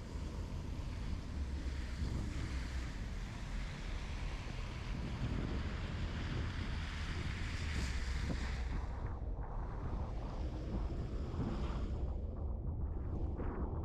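Snowstorm wind gusting on the microphone: a low rumble of buffeting under a broad rushing noise. The rushing eases about nine seconds in while the rumble goes on.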